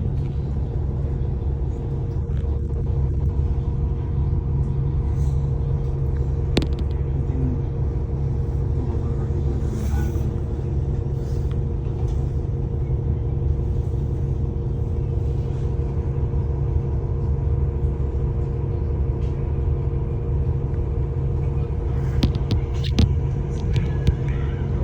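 Wind buffeting the microphone, a steady low rumble over city street traffic, with a few sharp clicks, one about six seconds in and a cluster near the end.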